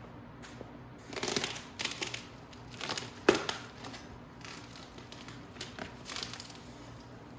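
Bubble wrap and plastic packing being crinkled and pulled off in irregular rustling bursts. A single sharp knock comes about a third of the way through.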